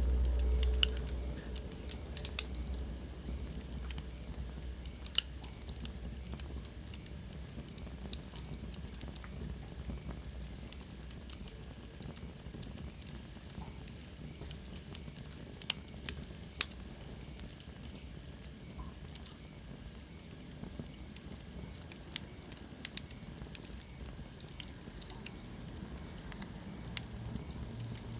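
Wood fire burning in a fireplace, crackling with scattered sharp pops over a low steady rumble that is stronger in the first couple of seconds. Around the middle, a faint high whistle slides down in pitch.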